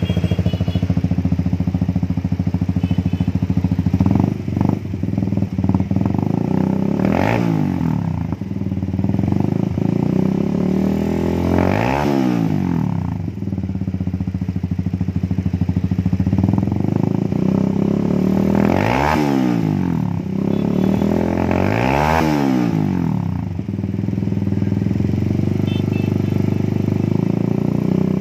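Benelli Evo 200 idling through an Audey Steel GP stainless full-system aftermarket exhaust, blipped several times, each rev rising and falling back to idle.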